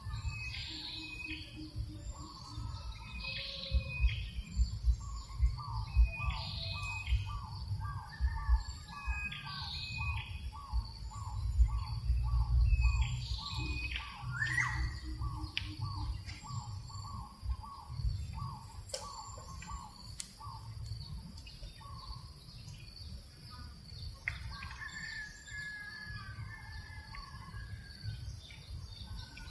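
Several birds calling outdoors: short chirps repeat about every two seconds, and another bird gives a long series of quick, evenly spaced notes for about fifteen seconds. A gentle breeze rumbles on the microphone, gusting strongest about twelve seconds in.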